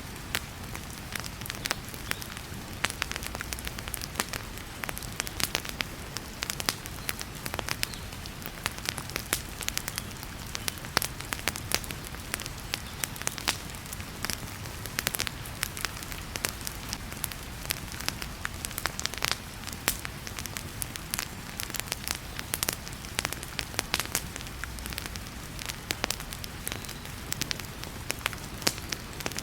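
Wood fire crackling in a fireplace, with frequent irregular sharp pops and snaps over a steady hiss of heavy rain.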